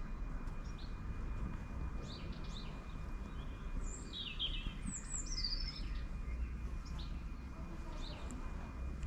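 Small birds chirping, with a short run of falling song notes in the middle, over a steady low rumble.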